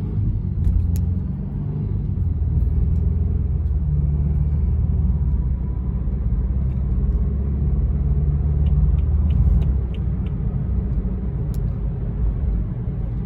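Car engine and road rumble heard from inside the cabin, a steady deep rumble. A few faint quick ticks come about nine seconds in.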